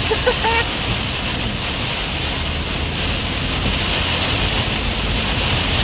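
Heavy rain pelting a moving car's windshield and roof, mixed with tyre spray and road noise, heard from inside the cabin as a steady hiss with a low rumble underneath.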